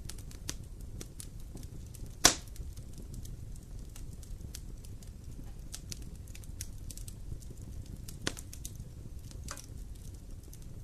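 Campfire wood burning and crackling, with scattered small clicks over a steady low rumble. A loud sharp pop about two seconds in, and another, smaller pop near the end.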